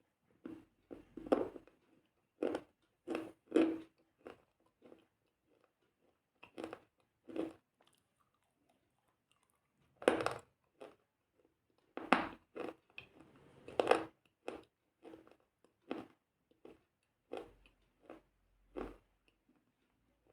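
Close-up chewing and biting of crunchy food: a run of short, sharp crunches at an uneven pace, with a pause of about two seconds in the middle.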